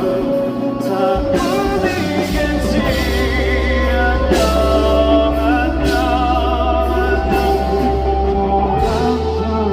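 Live band music with a male voice singing held notes with vibrato over guitar, drums and bass; the bass drops out near the end.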